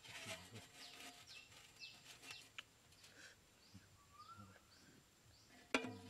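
Faint chirping of wild birds: short falling chirps repeated throughout, with one rising call about four seconds in. A single sharp knock near the end.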